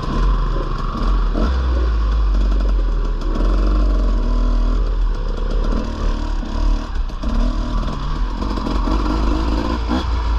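Dirt bike engine running under changing throttle as it is ridden through soft sand, its pitch rising and falling over a deep rumble, with a few brief knocks.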